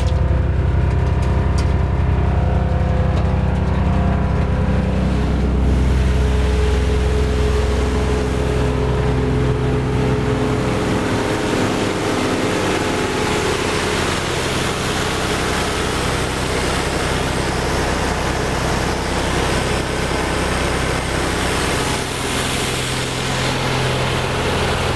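2003 Vermeer BC1230 wood chipper's engine running steadily with an even, low drone. About eleven seconds in, the sound changes to a noisier, rougher running with more hiss and less low rumble.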